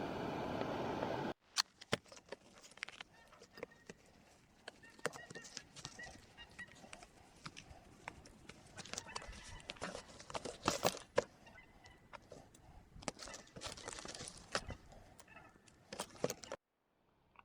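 A steady hiss that cuts off suddenly about a second in, followed by a long run of irregular small clicks, taps and knocks, like utensils or gear being handled, which stop shortly before the end.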